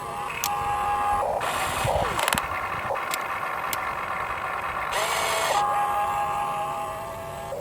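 Electric motors of a Huina 1592 RC model excavator whining as it works, the pitch stepping and shifting as different functions run. There are two short noisy bursts, about a second and a half in and about five seconds in.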